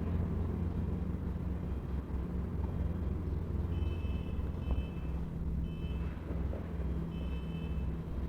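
Heavy diesel machinery engine running steadily, with an electronic reversing alarm beeping four times from about halfway through.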